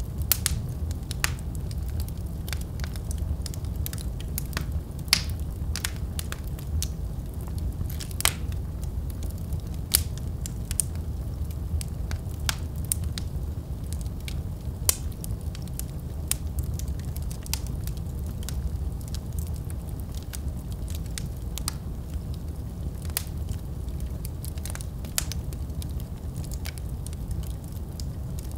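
Wood fire burning in a fireplace: a steady low rumble of flame with irregular sharp crackles and pops, a few louder snaps among them.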